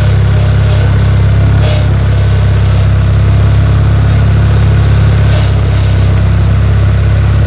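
Lawn tractor's small engine running steadily at an even, unchanging speed, loud and close.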